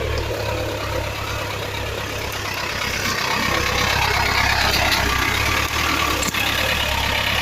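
GAZ-63 truck's six-cylinder petrol engine running steadily, getting louder about three seconds in.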